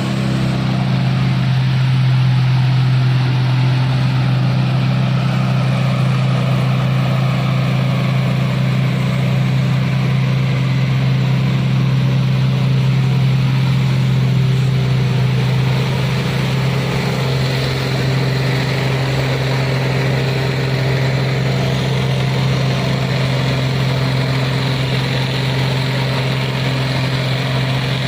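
Isuzu truck's diesel engine running at a steady pitch, with a slight change in its tone about two-thirds of the way through.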